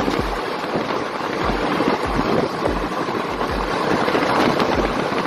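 Moving passenger train heard from its open window: wheels clacking over rail joints in regular paired beats, under a steady rush of wind and running noise.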